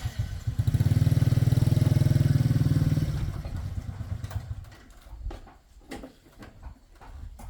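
An engine running with a rapid, even firing beat: it builds up within the first second, holds steady and loud for about two seconds, then fades away over the next two.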